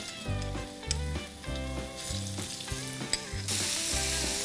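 Chopped garlic sizzling in hot oil in a pan, the sizzle growing much louder about three and a half seconds in. Background music with a steady bass beat runs underneath.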